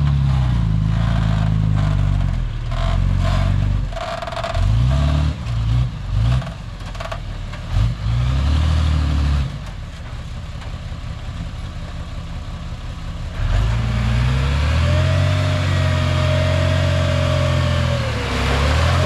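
Komatsu D51 bulldozer's diesel engine working, its revs dropping and climbing several times with clattering. About two-thirds of the way through it goes quieter, then comes back up to a steady, heavier run with a whine over it.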